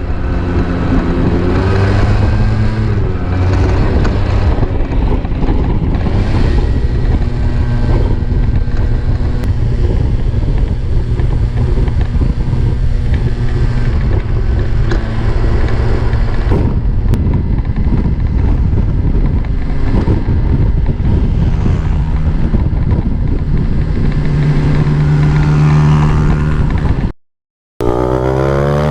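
Small two-stroke scooter and motorcycle engines running on a group ride, a steady loud drone whose pitch shifts as the throttle changes. The sound cuts out briefly near the end, then an engine revs up with a rising pitch.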